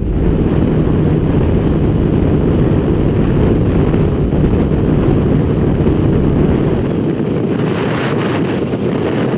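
Steady wind rush buffeting the microphone over the running engine of a motorcycle being ridden on the road.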